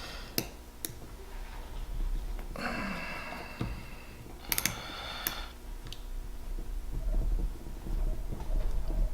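Hand tools working on a motorcycle carburetor's top cover: a few sharp metallic clicks and two short squeaky scraping stretches, over a low steady hum.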